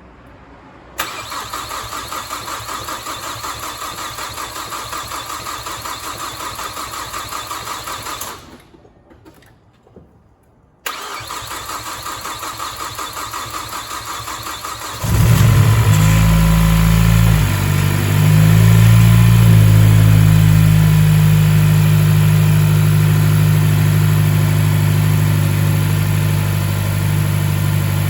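A Mazdaspeed Axela's 2.3 L direct-injection turbocharged L3-VDT engine being started after its overhaul. The starter cranks with an even pulsing for about seven seconds without the engine catching, and stops. It cranks again a couple of seconds later, and the engine catches after about four more seconds, dips briefly, then settles into a steady idle.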